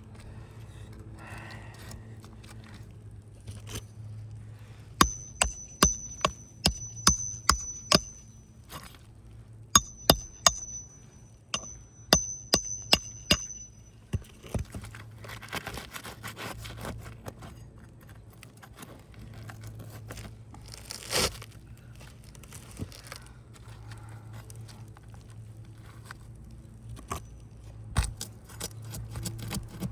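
A run of sharp metallic taps, about two a second, each with a brief high ringing note: a hammer tapping a steel roofing snake (shingle ripper) under asphalt shingles to break their seal. It is followed by scraping and a short tearing rasp as the tool works the sealed shingles loose.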